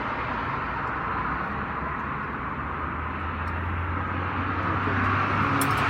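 Steady machinery drone: a low, even hum under a broad hiss, with no clear rhythm, growing slightly louder near the end.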